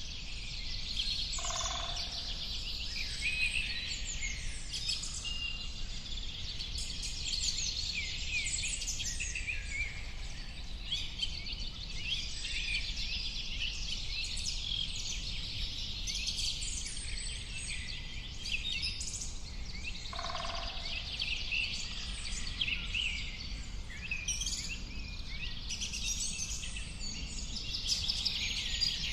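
A dense chorus of many small birds chirping and twittering over a steady low rumble. A short, lower call that falls in pitch sounds twice, about a second and a half in and again about twenty seconds in.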